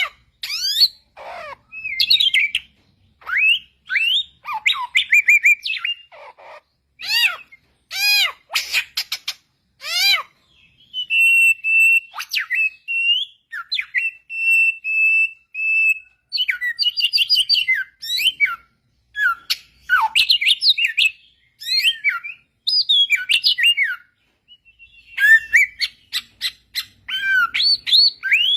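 A samyong singing a clear, varied song of quick whistled phrases and chirps with short pauses, with a string of steady held whistles in the middle.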